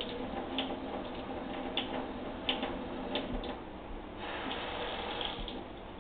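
Water in a kitchen sink as a pan is washed by hand, with a few light knocks in the first half and a stretch of running water for about a second, just past the middle.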